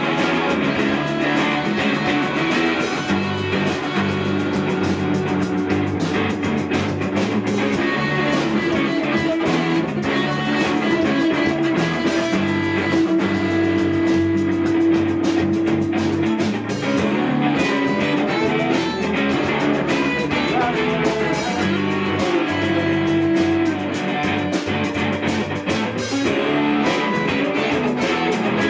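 Rock band playing live, guitar to the fore over drums, in a stretch without singing; a long note is held near the middle.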